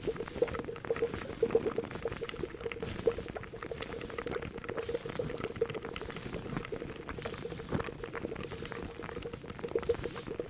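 A pot of liquid boiling hard, bubbling with an irregular run of deep glugging pops, with small clicks mixed in.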